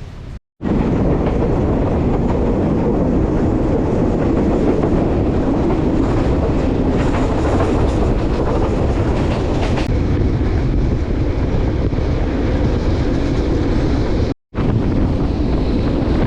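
Passenger train running along the line, a loud steady rumble of wheels and carriages on the rails with rattling, heard on board. The sound breaks off for a moment twice, just after the start and near the end.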